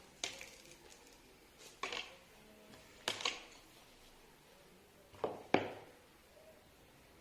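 A few light knocks and clicks, about six in all, several coming in close pairs, each with a short ring after it, over a quiet background.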